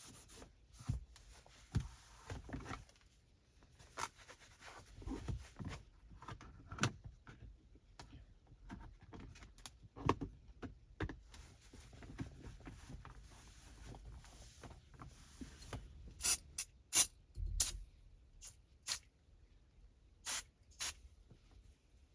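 Microfiber cloth wiping and rubbing over car interior surfaces, with scattered light taps and knocks as things are handled, and a quick run of sharper short sounds about three quarters of the way through.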